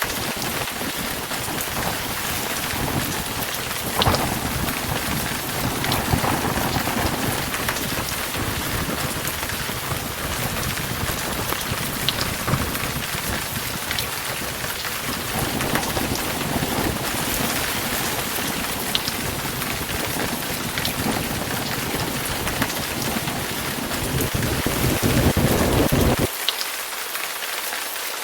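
Heavy rain pouring steadily, with thunder: a sharp crack about four seconds in, and a low rumble that swells near the end and cuts off suddenly.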